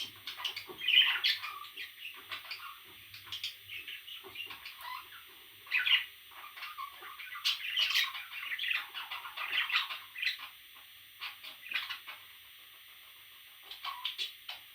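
Parrot chicks calling in many short, irregular chirps and squawks, with a brief lull about twelve seconds in before a few more calls near the end.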